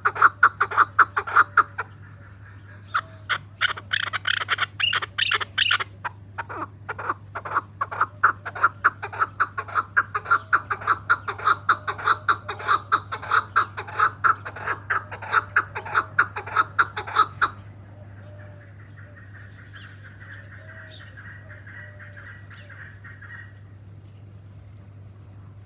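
Chukar partridge calling: a fast, rhythmic series of loud repeated clucking notes, about three to four a second, that stops abruptly about 17 seconds in.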